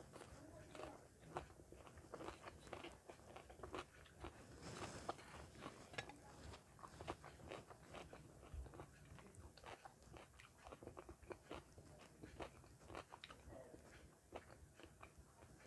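Faint, close-miked chewing of food in the mouth: many small, irregular crunches and wet mouth clicks.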